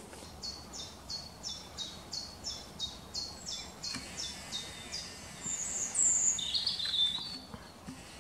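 A small songbird singing a steady run of about fourteen short, downward-sliding high notes, roughly three a second. Then a louder flurry of chirps in the same high range comes just past the middle.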